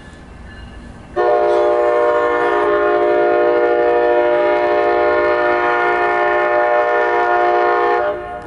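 MARC commuter train's locomotive horn sounding one long, steady chord for about seven seconds, starting about a second in and cutting off near the end.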